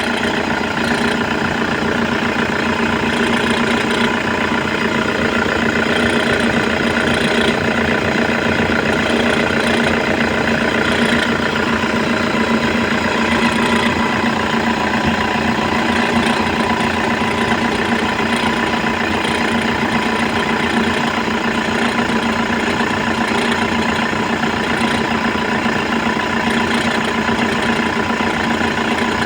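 Toyota engine running at a steady idle, with a constant whirring from a bad alternator pulley.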